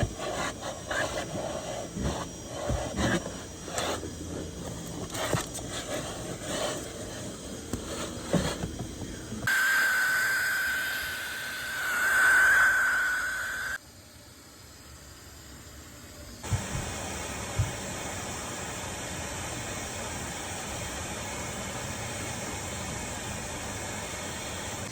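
Interior car cleaning: scattered clicks and knocks of things being handled, then a steady high whine with hiss for about four seconds that swells and then cuts off, then a steady hiss.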